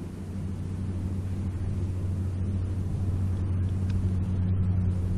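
An engine running with a steady low hum that slowly grows louder.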